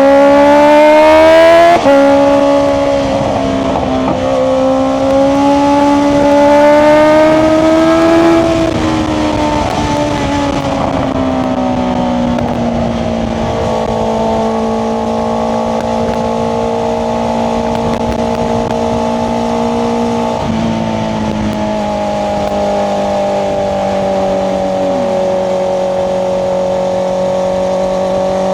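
Honda CBR650R's inline-four engine running through an Akrapovic exhaust under hard acceleration. It revs up to a gear change about two seconds in and climbs again until about eight seconds. Then it eases into a steady cruise, with another gear change near twenty seconds.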